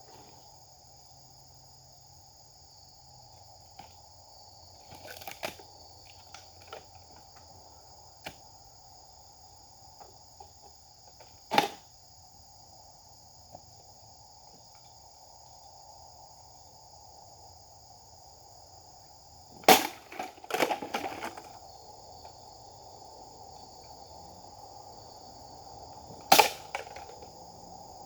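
Japanese sword (katana) being swung in cuts: a few sharp swishing strikes spread out, with a quick cluster of them about two-thirds through and another near the end. Underneath, a steady chorus of insects.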